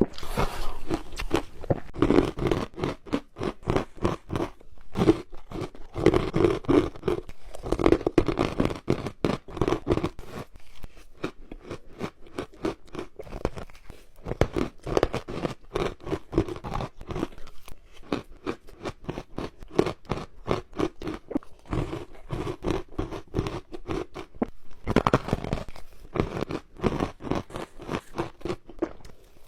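Close-miked ice being bitten and chewed: a dense run of sharp crunching crackles that comes in louder clusters every few seconds.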